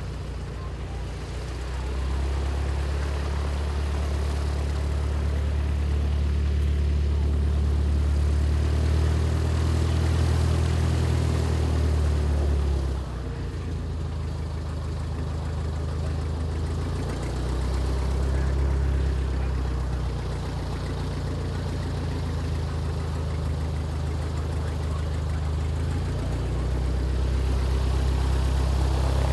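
An engine running at idle with a steady low rumble that grows louder and softer several times, dropping off sharply about halfway through.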